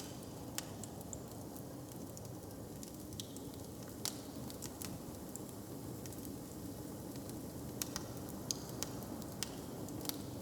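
Wood fire crackling, with irregular sharp pops and snaps a few times a second over a steady low rumble.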